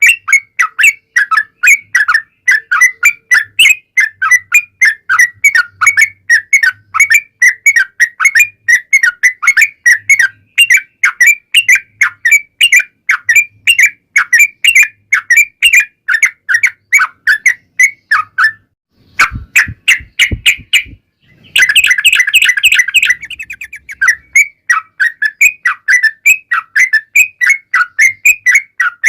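Yellow-vented bulbul (trucukan) song: a long, rapid run of short repeated chirps. About nineteen seconds in it breaks off for a moment with a few low thumps, then comes back as a denser burst before the steady chirping resumes.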